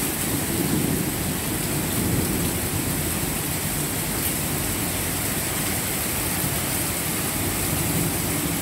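Steady downpour of rain with a little hail mixed in.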